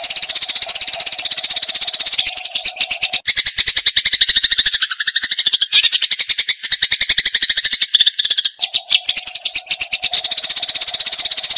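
Eurasian tree sparrow giving its fast, unbroken fighting chatter of short, high chirps, many each second. About two seconds in, the chatter drops lower in pitch, then rises back near the end.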